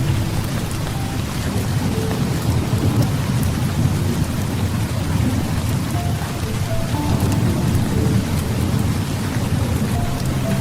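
Steady heavy rain with a continuous low rumble of thunder underneath.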